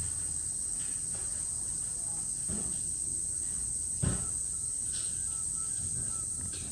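Steady high-pitched chorus of insects, with a single short knock about four seconds in.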